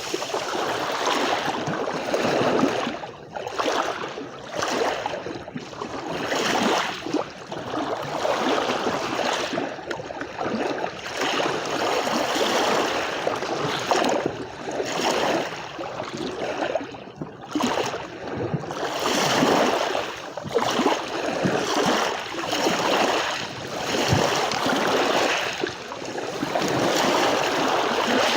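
Sea waves washing and lapping on the shore, a continuous wash that swells and falls every second or two.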